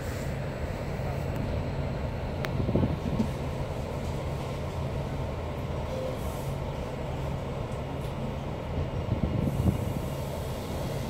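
Passenger train rolling slowly into a station, heard from inside the carriage: a steady low rumble and hum, with louder knocks from the running gear about three seconds in and again near the end.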